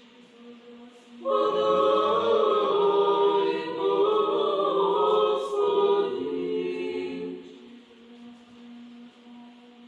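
Several dogs howling together in chorus for about six seconds, their overlapping wavering howls starting abruptly and fading out. A fan hums steadily underneath.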